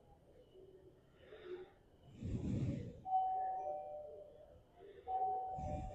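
A chime, like an electronic door chime, sounds twice about two seconds apart, each note ringing and fading over a second or so. A dull low thump comes with each note.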